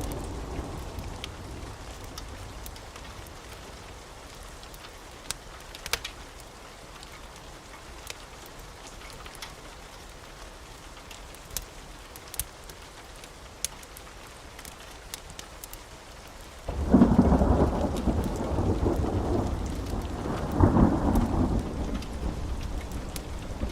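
Steady rain with scattered sharp crackles. About two thirds of the way in, a thunderclap breaks out suddenly into a loud, low rolling rumble that swells again a few seconds later.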